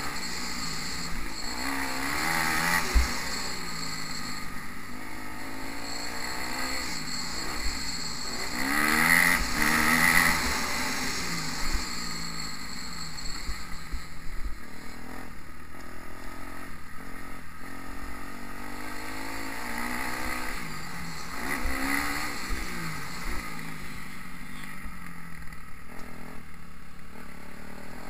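Motocross bike engine revving up and down again and again as the rider accelerates out of turns and backs off into them, with scattered knocks from the bumps of the dirt track.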